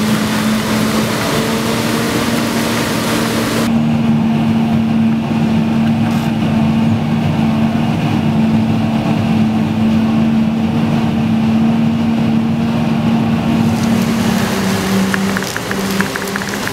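Heavy diesel farm machinery running steadily at a maize chopping harvest: a loud, even engine drone at constant pitch. The high hiss drops away about four seconds in, and the engine pitch dips slightly near the end.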